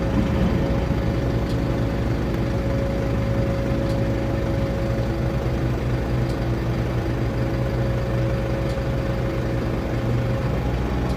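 An engine running steadily at idle: a low, even hum with a steady higher whine over it, unchanging throughout.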